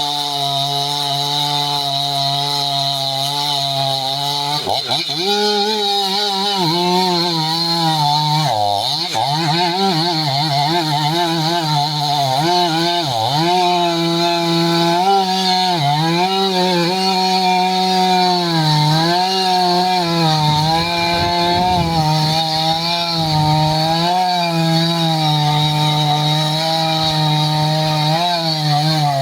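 Stihl MS500i fuel-injected two-stroke chainsaw cutting hardwood. It runs steadily at first, revs up about four to five seconds in, then its pitch dips and recovers again and again as the chain loads up in the wood.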